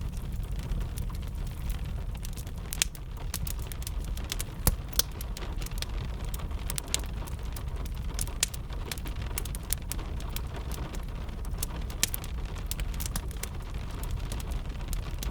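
Wood fire crackling, with irregular sharp pops and snaps over a steady low rumble, mixed with gentle rain.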